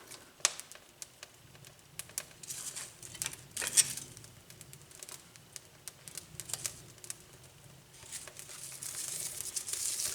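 Newly lit wood fire crackling in a fireplace with irregular sharp snaps, while dry brushwood crinkles as it is pushed in. The crackling thickens into a denser rush near the end as the brush catches.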